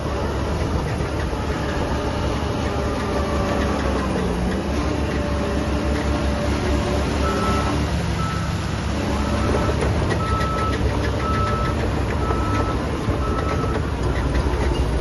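Heavy construction machine's diesel engine running steadily, with a reversing alarm starting to beep about halfway through, a short high beep repeated roughly every half second or so.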